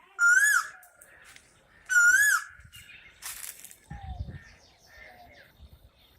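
A bird calls twice, each a loud, clear note that rises then falls, about a second and a half apart, with fainter chirps from other birds around it.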